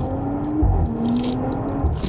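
Audi S5 Sportback's V6 engine pulling through the gears on a new downpipe and RS exhaust. Its note rises, drops at a gear change about two-thirds of a second in with a low thud from the exhaust, then rises again, with a few scattered crackles.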